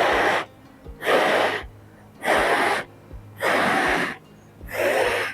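An inflatable sleeping pad being pumped up: five even rushes of air, about one a second, each about half a second long.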